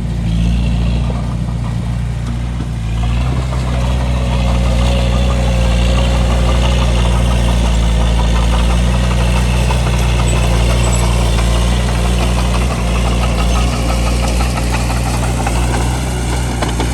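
Bulldozer's diesel engine running steadily, a little louder from about three seconds in.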